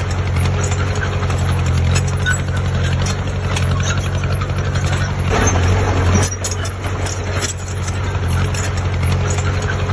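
Diesel engine of a heavy construction machine (dump truck or bulldozer) running steadily, with a louder burst of noise lasting under a second about five and a half seconds in.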